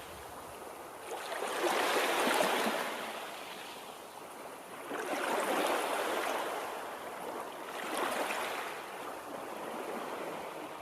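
Moving water: a rushing hiss that swells and fades in slow washes about every three seconds.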